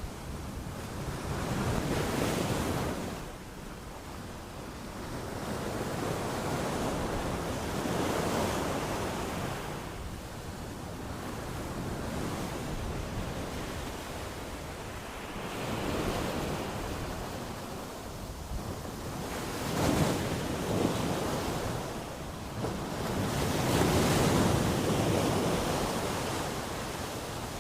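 Sea waves surging in and washing back, the noise swelling and fading every several seconds, with a sharper crash about twenty seconds in.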